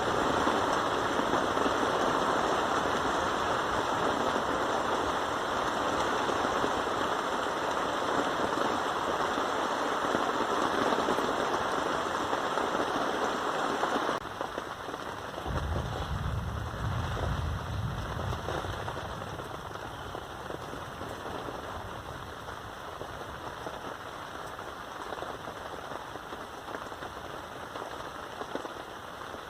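Steady rain pattering, loud in the first half, then abruptly quieter about halfway through. A low rumble comes in for a few seconds just after the drop.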